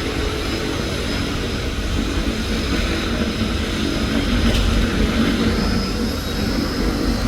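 Airplane engines running steadily during a landing: a low rumble with a steady high whine over it.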